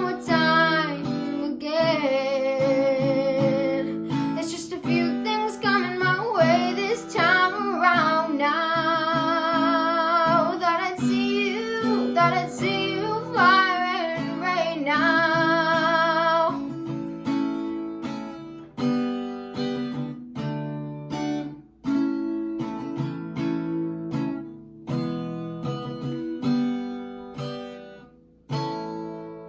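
Closing bars of an acoustic song: a singer holds long notes with vibrato over strummed acoustic guitar for about the first half. The guitar then goes on alone with slow picked chords that die away near the end.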